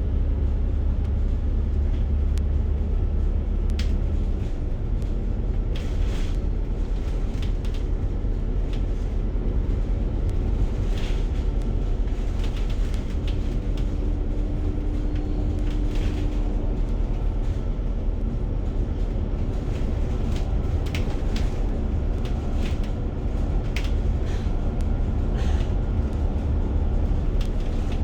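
Steady low rumble of a moving public transport vehicle heard from inside, with scattered short rattles and clicks.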